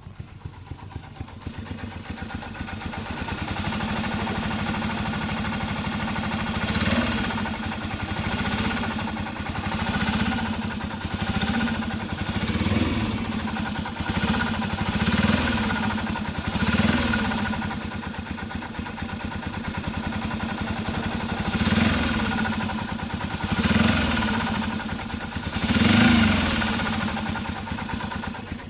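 Bored-up Honda Little Cub's small single-cylinder four-stroke engine running near idle, then blipped about ten times in short rises and falls from about a quarter of the way in. The owner hears an abnormal noise in it that a tappet adjustment and a new cam chain tensioner pushrod head and spring have not cured.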